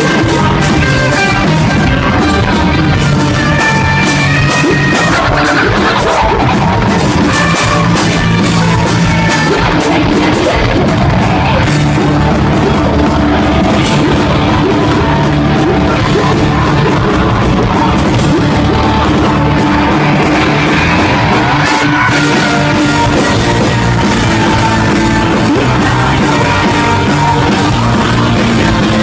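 A post-hardcore band playing loud rock, with drums and guitars driving steadily, and sung and shouted vocals over the top.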